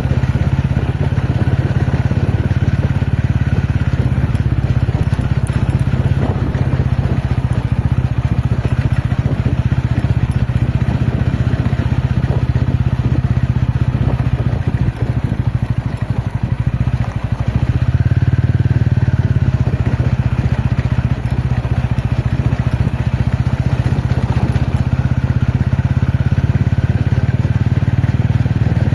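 TVS Ronin's single-cylinder engine running steadily on an off-road ride, with crackle and clatter from the rough ground. The engine note drops briefly a little past halfway, then picks up again.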